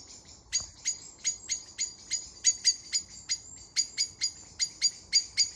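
A bird calling in a rapid, steady series of short sharp chips, about five a second, starting about half a second in.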